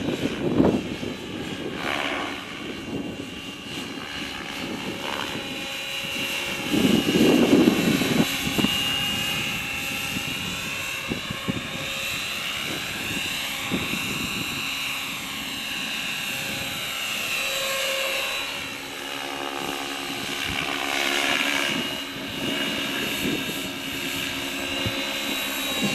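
Align T-Rex 550E electric RC helicopter in flight: its motor and helical main gear whine with the rotor blades, the pitch sliding up and down as it manoeuvres. Gusts of wind hit the microphone, the strongest about seven seconds in.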